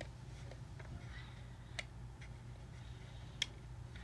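Small plastic toy pieces clicking and tapping as they are picked up and set into a toy fridge: a few light clicks, a sharper one near two seconds in and the loudest about three and a half seconds in, over a low steady hum.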